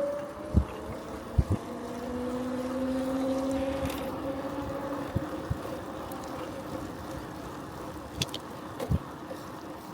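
Bicycle riding on a road: a steady rumble of tyre and wind noise, broken by a few short knocks from bumps. A motor hum swells through the middle and then fades, as of a vehicle passing.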